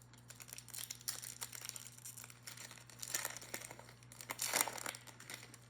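Foil trading-card pack wrapper being torn open and crinkled in irregular scratchy flurries, loudest about three and four and a half seconds in.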